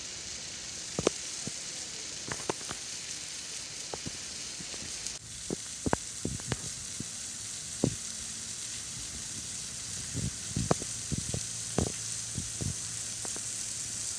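Steady hiss of a waterfall's falling water, with scattered sharp clicks and taps over it.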